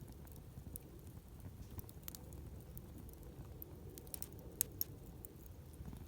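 Wood campfire crackling over a steady low rumble of flames, with scattered small snaps and two louder pops in quick succession about four and a half seconds in.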